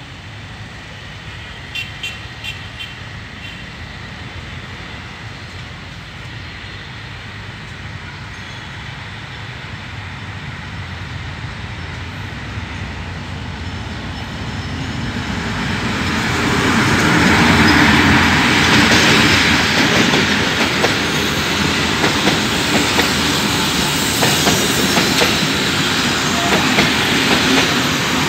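A diesel-hauled passenger train approaches, its sound building gradually, then grows loud about 16 seconds in as the locomotive and coaches pass close by, wheels clattering over the track.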